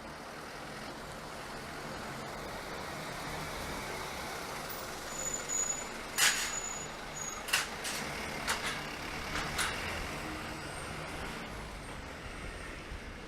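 A train running past on the line, its noise swelling and fading. In the middle come a brief high squeal and four sharp hissing strikes, about a second apart, typical of air brakes and wheels on rail.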